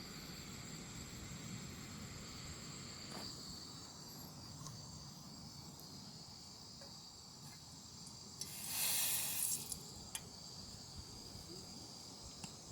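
Insects chirring steadily in several high, thin tones, with a brief louder burst of hissing noise about nine seconds in.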